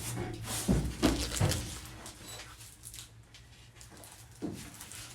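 A few short knocks and thumps of handling, clustered about a second in and one more near the end, over a steady low hum.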